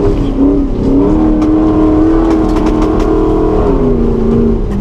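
Nissan GQ Patrol competition 4x4's engine running under load, the revs climbing about a second in, holding, then dropping near the end.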